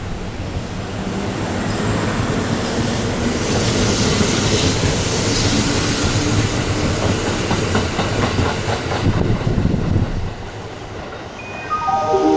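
Kintetsu electric train running through the station, its noise building, then wheels clicking in rapid even beats over rail joints. Near the end a series of pitched tones begins, stepping in pitch.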